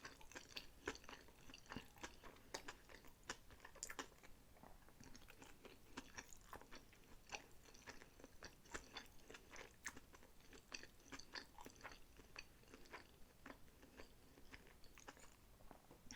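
Close-miked chewing of sushi: a steady run of wet mouth clicks and crunchy smacks, several a second.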